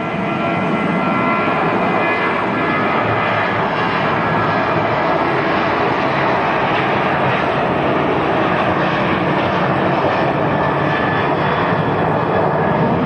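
Jet airliner engines running loud and steady, a wide rushing roar with a high whine that fades over the first few seconds.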